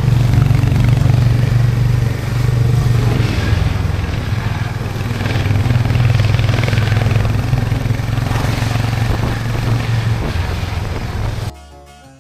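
Motorcycle engine running steadily while riding, a low, even drone that holds its pitch. It cuts off suddenly near the end, and soft harpsichord music begins.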